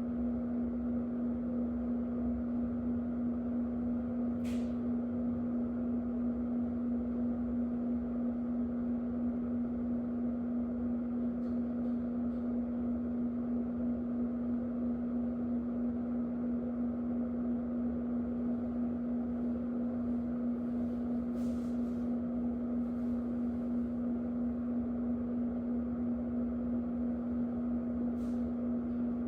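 Electric fan running steadily: a constant even hum under a soft rush of air, with a few faint brief ticks.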